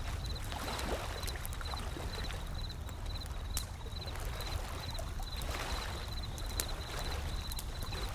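Wood fire crackling with scattered sharp pops over a steady low wash of ocean waves. A thin high chirp repeats about twice a second throughout.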